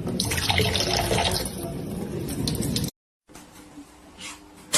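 Running water, an even rushing sound that cuts off abruptly just before three seconds in, followed by fainter, patchier sounds.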